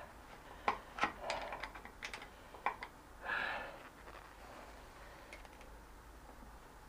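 Scattered light clicks and taps of metal tools and parts being handled, with a short scraping rustle about three seconds in.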